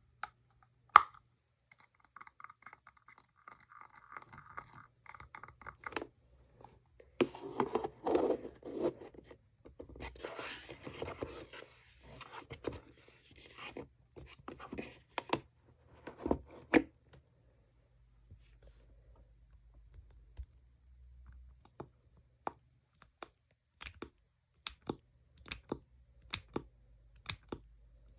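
ASMR scratching and tapping on makeup packaging: a loud sharp tap about a second in, a stretch of rough scratching in the middle, then a few hard taps and lighter scattered taps near the end.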